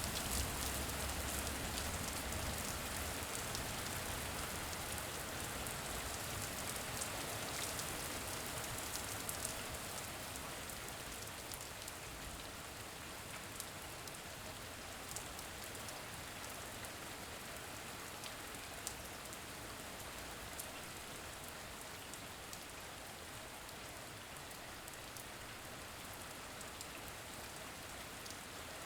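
Steady rain, a constant hiss with scattered drop ticks. A low rumble underneath fades out in the first few seconds.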